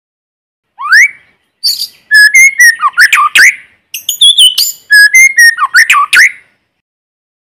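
White-rumped shama singing: a single rising whistle, then two long runs of fast, varied whistles and slurred notes with a short pause between them.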